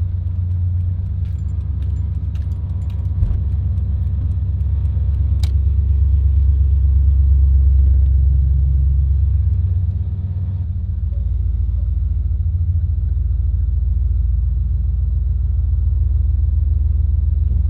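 Pickup truck engine running with a steady, deep exhaust rumble; the tone shifts slightly about ten and a half seconds in.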